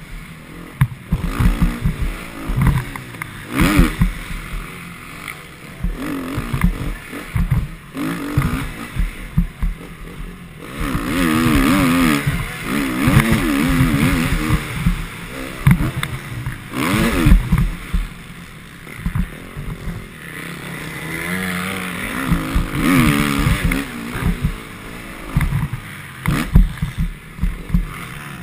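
Motocross bike engine revving hard and backing off over and over, its pitch rising and falling in waves, over a heavy, uneven low rumble.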